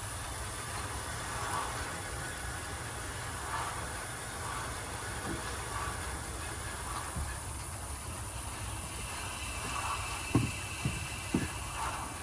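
Lawn irrigation sprinklers spraying with a steady hiss over a low background rumble, with three short knocks a little before the end.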